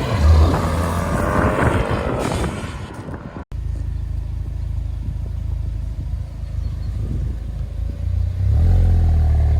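Ford Focus ST's turbocharged four-cylinder engine revving as the car drives, its pitch rising and falling. After a cut about three and a half seconds in, a steady low engine rumble takes over and grows louder near the end.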